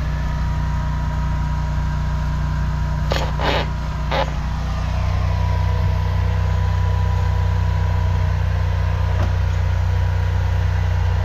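An engine running steadily, most likely the high-pressure drain jetter's, which gets louder about five seconds in. About three to four seconds in there are three short bursts of noise.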